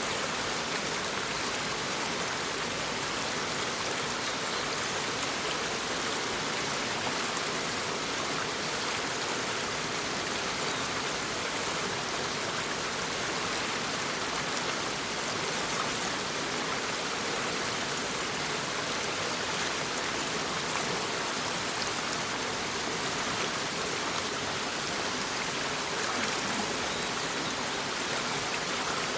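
Shallow brook babbling over stones: a steady, even rush of running water.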